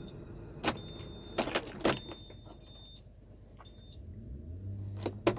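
A few sharp clicks and knocks in a cold diesel machine between start attempts, then a low hum building near the end.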